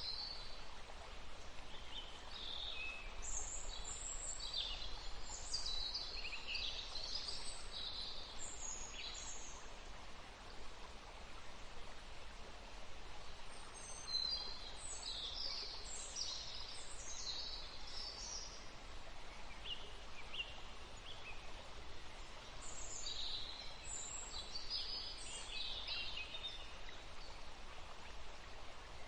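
Small birds chirping in three bouts of quick, high notes roughly ten seconds apart, over a steady background hiss.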